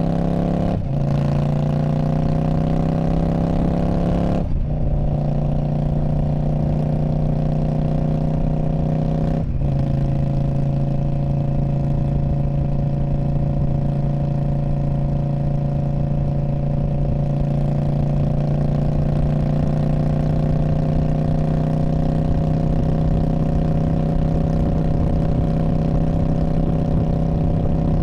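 2019 Indian Scout Bobber's V-twin running through a Freedom Performance Radical Radius exhaust. The exhaust note breaks off briefly three times within the first ten seconds, then holds a long steady note that slowly climbs in pitch.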